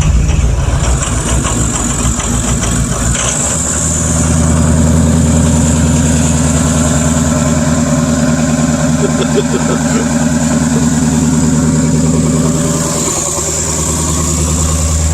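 Ford 6.0 Power Stroke V8 turbo-diesel in an E-450 bus, idling just after a cold start. It runs unevenly for the first three seconds, then settles into a steady idle.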